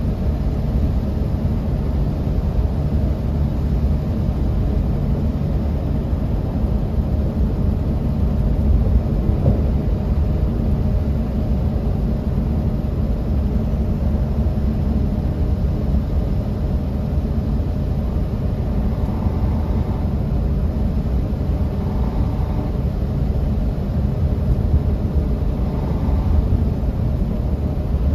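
Interior of a moving bus: a steady low rumble of engine and road noise.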